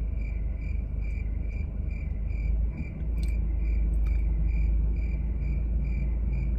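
A short high-pitched chirp repeating evenly about twice a second, over a low steady rumble.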